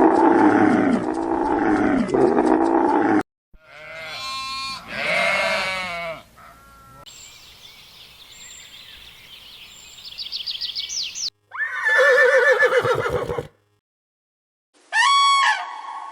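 A string of separate animal calls from different animals, each a few seconds long, cut one after another with short silences between them. The first and loudest lasts about three seconds and is a low, pitched call, typical of livestock.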